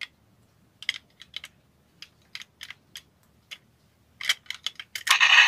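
A series of irregular light clicks and taps, sparse at first and coming in a quicker cluster near the end, with a louder sound starting right at the close.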